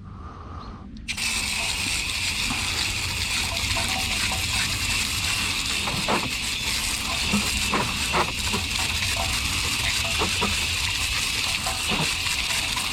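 Water spraying steadily from a hose nozzle onto a car wheel. It starts about a second in, with a few faint knocks underneath.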